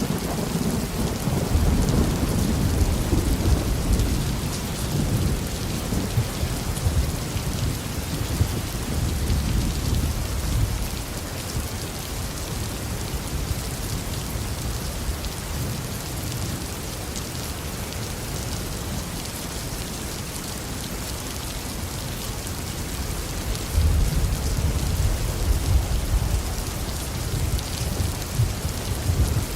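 Steady heavy rain falling on a garden, with low rolling thunder rumbling in the first ten seconds or so, easing off, then rumbling again near the end.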